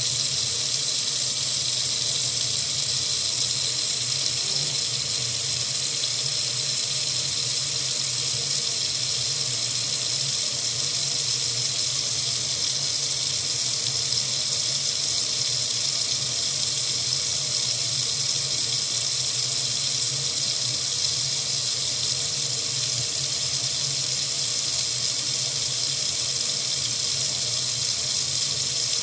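Water running steadily from a faucet into a sink, a constant hiss with no change.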